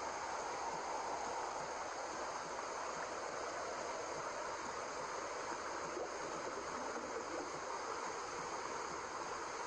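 Steady white noise: a continuous, even hiss that does not change, meant to resemble the sound heard in the womb.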